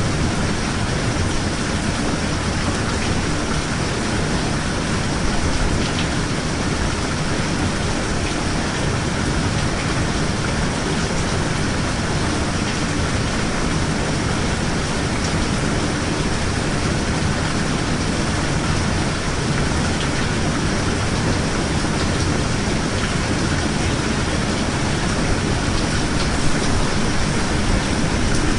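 Steady heavy rain, a dense even hiss with a low rumble beneath it and a few faint drop clicks.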